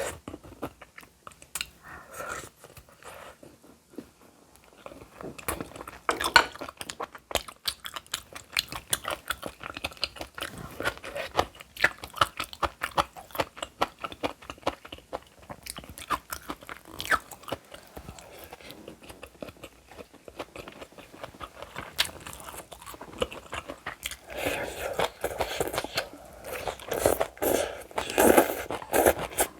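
Close-miked eating: food being chewed and crunched in the mouth, with many quick wet clicks and smacks, and the chewing loudest near the end.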